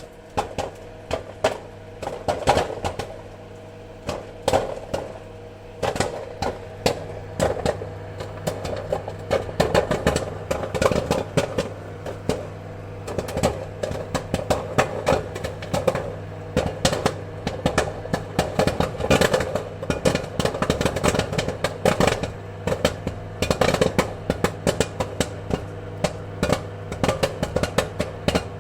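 Popcorn kernels popping in quick, irregular succession over a steady low hum, sparser for a few seconds early on and then thick and rapid.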